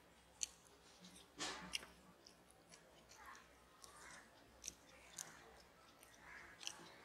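Close-miked mouth sounds of a person eating by hand: chewing and lip smacks, with half a dozen sharp clicks scattered through.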